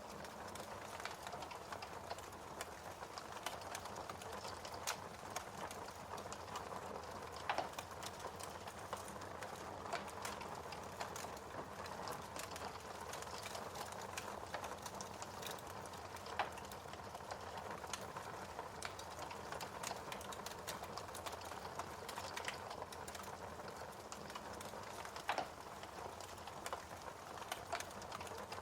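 Wood fire crackling in a fireplace: a steady soft hiss with frequent small crackles and three louder pops.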